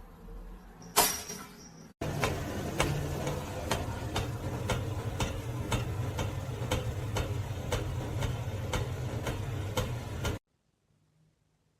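A single sharp click, then a steady run of evenly spaced ticks, about two a second, over a low hum, which cuts off abruptly near the end.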